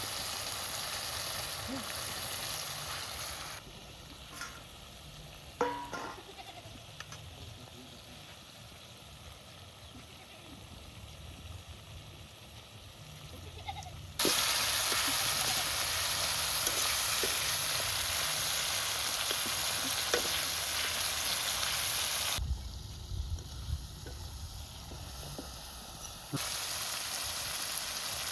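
Curry frying in a pan with a steady sizzle. The sizzle comes and goes: loud at first, much quieter from about three seconds in, loud again about halfway, briefly quieter, and loud again near the end.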